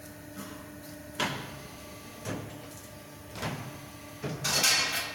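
Double-head pipe bending machine working: a steady hum under a series of clunks roughly once a second, with a louder hissing clatter near the end.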